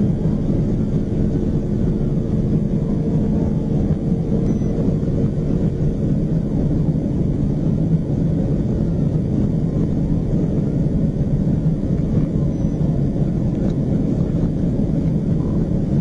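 Patrol car driving at high speed, heard from inside the cabin: a steady, loud rumble of engine, tyres and wind. A faint siren wail rises and falls over it.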